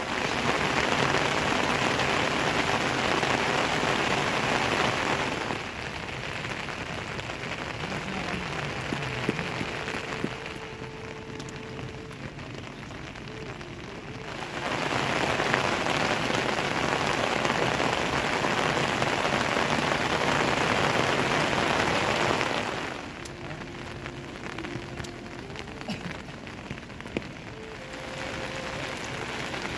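Steady rain falling, a dense even hiss that is heavier for about the first five seconds and again in the middle stretch, then drops back to a lighter patter.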